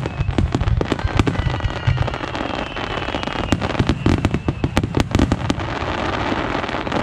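Aerial fireworks going off in rapid succession: deep booms of shell bursts under dense crackling and many sharp pops.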